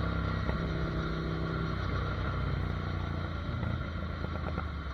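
Ducati Monster 797's air-cooled L-twin engine running while riding, a steady engine note over road noise that eases slightly toward the end.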